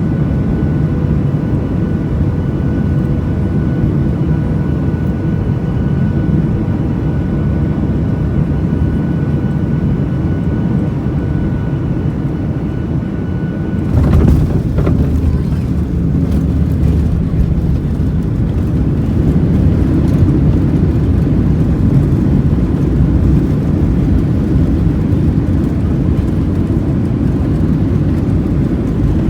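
Boeing 737 cabin noise: the jet engines run with a steady whine over a low rumble. About halfway through, the sound changes suddenly as the whine drops away and a louder rumble with rattling takes over, typical of touchdown and the landing roll on the runway.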